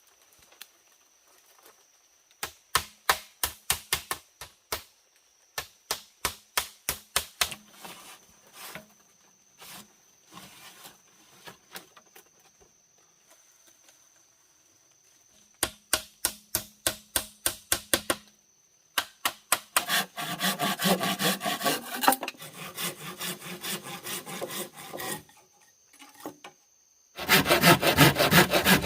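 Hand saw cutting through wood in quick back-and-forth strokes, about four a second, in several runs with short pauses between them; the strokes become denser and louder near the end.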